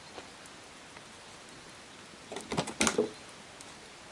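Steady rain falling on the shelter, with a short cluster of knocks and rustling about two and a half seconds in.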